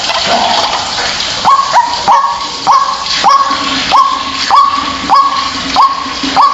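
White-breasted waterhen (ruak-ruak) calling in a steady repeated series, each note sweeping sharply up and then held briefly, about one and a half calls a second, over a background hiss. It is a recorded lure call for trapping waterhens.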